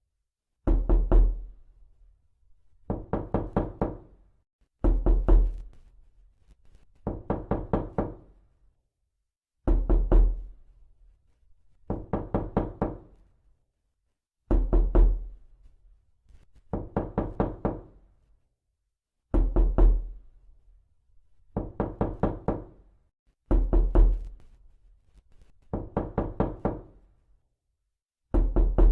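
Knocking on a door, repeated over and over: each round is a quick run of about five knocks, and a new round starts roughly every two seconds, with silence in between.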